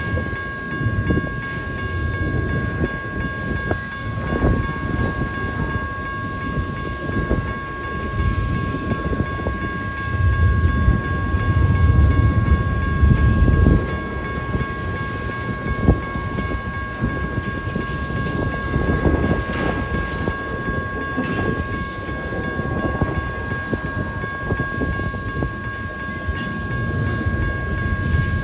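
A freight train rolling by, with low rumbling and scattered clicks of wheels and cars, loudest about ten to fourteen seconds in. Two steady high-pitched tones ring over it.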